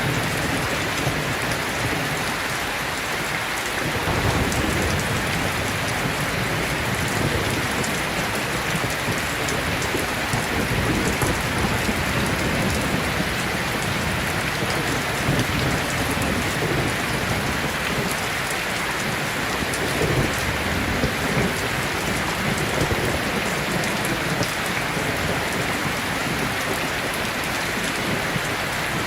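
Heavy rain pouring steadily, with low rolls of thunder rumbling underneath that swell and fade, one building about four seconds in.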